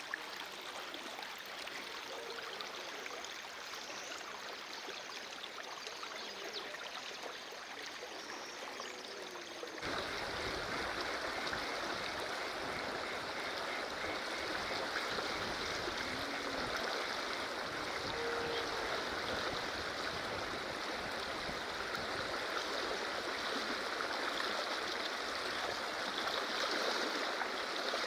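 Rushing water of a river in flood, a steady wash of noise that becomes louder and fuller about ten seconds in.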